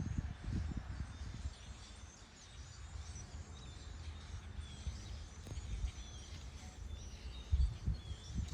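Small birds chirping and calling repeatedly in short high notes, over an uneven low rumbling noise that swells loudest near the end.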